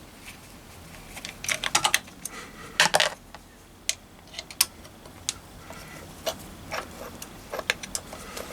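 Irregular metallic clicks and clinks of hand tools and small metal parts while the contact-breaker points are taken off a Triumph Bonneville T140 engine, with a quick flurry of clicks about a second and a half in and another about three seconds in.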